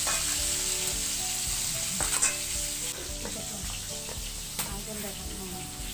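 Pieces of fish frying in hot oil in a pan, a steady sizzle, with a couple of brief knocks of cookware.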